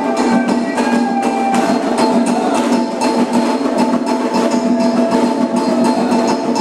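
Candomblé ceremonial music: fast, dense percussion with sharp wood-block-like strikes over steady held tones, continuing without a break.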